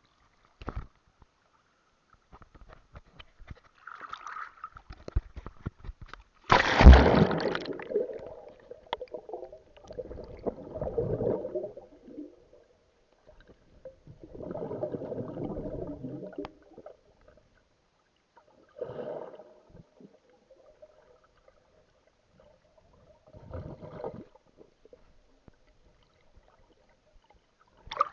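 Sea water sloshing and splashing in separate bursts every few seconds. The loudest is a sudden rush about six and a half seconds in.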